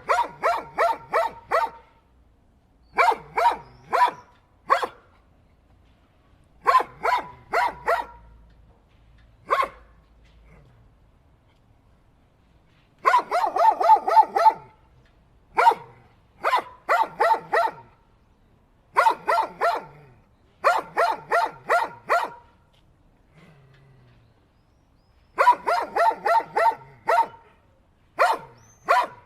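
Dog barking repeatedly in quick volleys of about three to six barks, with short pauses between volleys.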